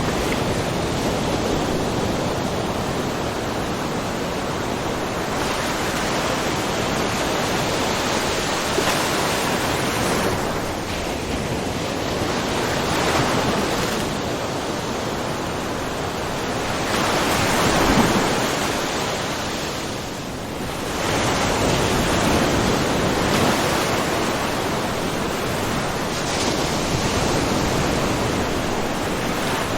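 Small ocean waves lapping and splashing in a rocky cove, a continuous wash that swells and ebbs every few seconds. The biggest surge comes a little past the middle, followed by a brief lull.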